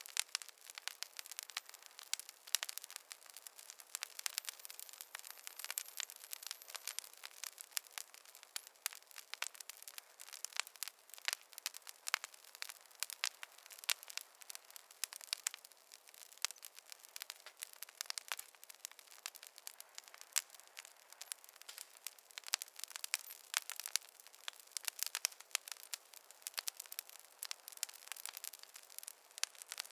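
Campfire of burning wood crackling, a dense, unbroken run of sharp pops and snaps, many a second. A faint high whistle slides slowly down in pitch a few seconds in.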